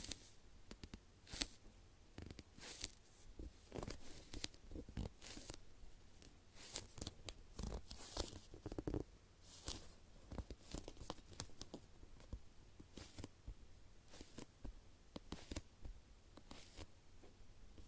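Hands squeezing and releasing a soft foam bread-slice squishy toy with a tacky surface. It gives quiet, irregular crackles and clicking, sticky rustles.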